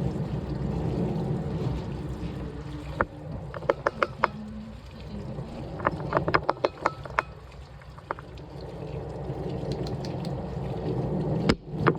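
Washing machine running a wash cycle: a steady low rumble with water sloshing in the drum, broken by short runs of sharp clicks and one louder knock near the end.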